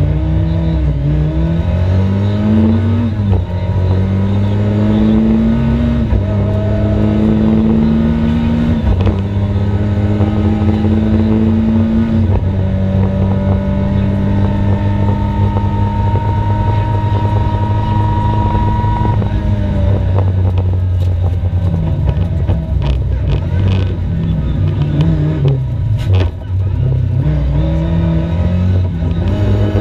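Rally car engine accelerating hard through the gears: the pitch climbs and drops back at each upshift about every three seconds, then holds a steady high note for about seven seconds. It falls away around twenty seconds in, with a few sharp knocks, and climbs again near the end.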